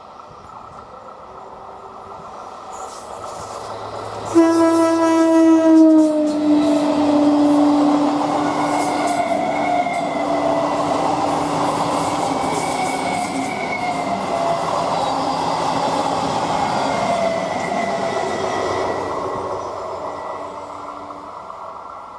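Indian Railways EMU local train passing at speed. Its horn sounds about four seconds in, is held for a few seconds and drops in pitch as the train goes by. Then comes the long rumble and clatter of the coaches passing, which fades near the end.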